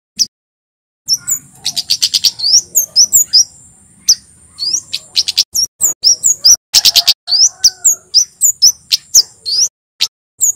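Male kemade (a Javan flowerpecker) singing: rapid, sharp, high chirps and ticking runs, starting about a second in. A thin, steady, very high tone runs beneath most of the song.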